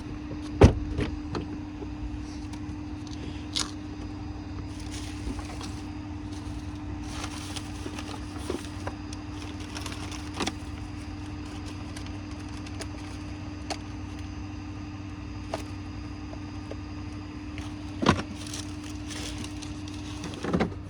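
Steady hum of an idling vehicle engine, with a few sharp knocks and thumps. The loudest come about half a second in and twice near the end.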